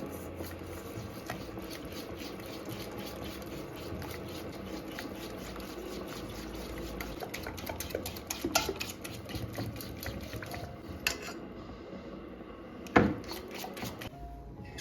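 Household handling sounds: a run of light clinks and taps, with a sharp knock near the end.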